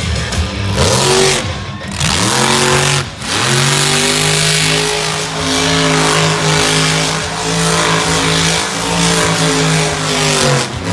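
Monster truck's big-block Chevy engine revving up through a couple of sweeps in the first few seconds, then held at high, steady revs while the truck spins a donut. The revs ease off slightly near the end.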